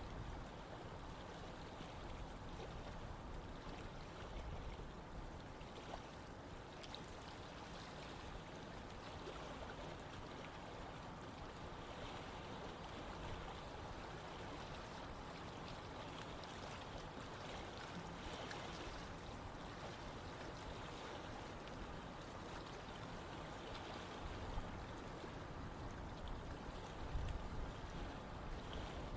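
Running water of a stream, a steady rush.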